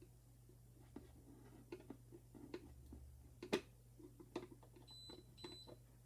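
Faint clicks and small handling taps, with one sharper click about halfway through, then two short high-pitched beeps near the end.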